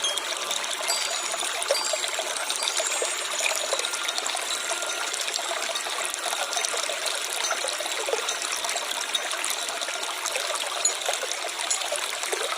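Stream water trickling and babbling steadily over stones, with small bright splashes flickering through it.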